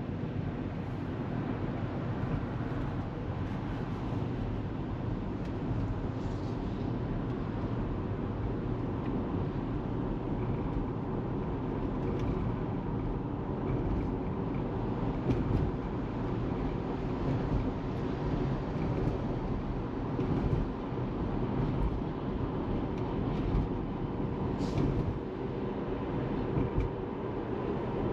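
Steady road and tyre noise of a Tesla Model 3 driving, with a few faint brief clicks.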